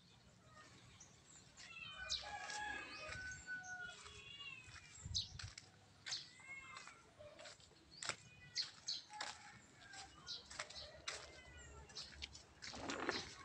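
Faint chirping calls of birds, short and repeated, with a few light clicks; a louder rustle comes in near the end.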